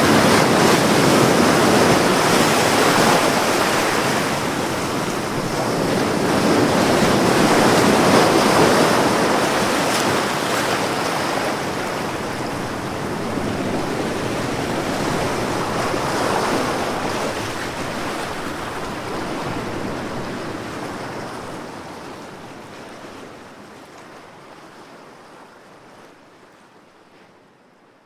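Ocean waves washing onto a shore, swelling and easing in slow surges, then fading out gradually over the last ten seconds or so.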